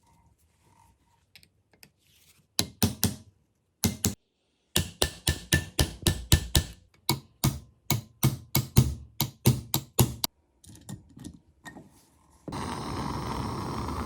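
A run of sharp knocks, about two or three a second for several seconds, then a few fainter ones. Near the end a steady machine noise starts abruptly.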